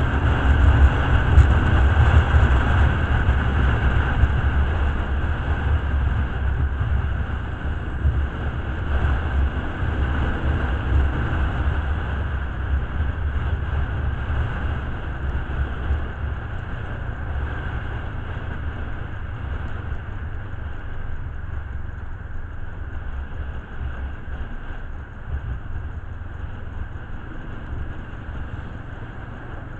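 A motor vehicle's steady low rumble, loudest at first and slowly fading away.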